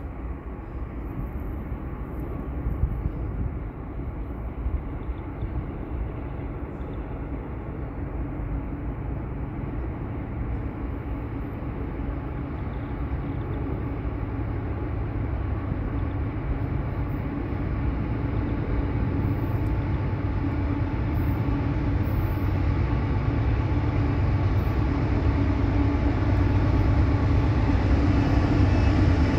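An approaching train's diesel locomotive: a low, steady engine drone and rumble that grows steadily louder as it nears.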